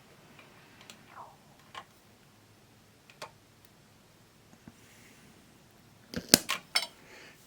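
Handling a handheld digital multimeter: a few faint scattered clicks, then a quick run of louder sharp clicks about six seconds in.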